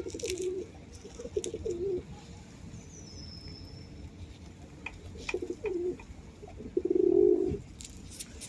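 Pigeons cooing close by: four low, wavering coos, the loudest and longest near the end. A small bird gives a short high chirp in the middle.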